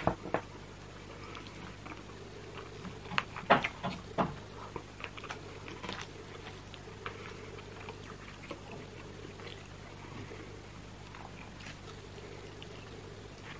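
Close-miked chewing and wet mouth sounds from eating oven-roasted chicken, with a cluster of sharp clicks about three to four seconds in, then fainter scattered ticks as the meat is pulled apart by hand. A faint steady low hum lies under it all.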